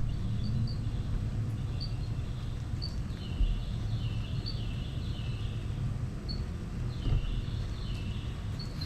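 Small animals' chirping calls: short high-pitched chirps in little groups, repeating every second or so, over a steady low rumble, with a couple of faint thumps.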